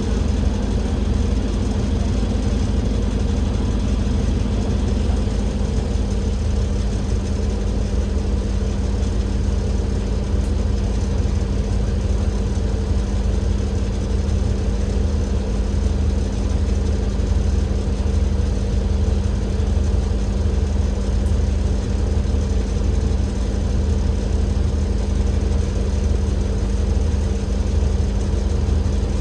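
Diesel engine of an Alexander Dennis Enviro500 MMC double-decker bus, a Cummins L9E straight-six, running steadily, with a low rumble and a constant droning hum.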